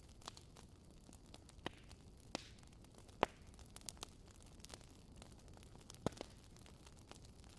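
Campfire crackling: a low steady hiss with scattered sharp pops from the burning wood, the loudest a little past three seconds in.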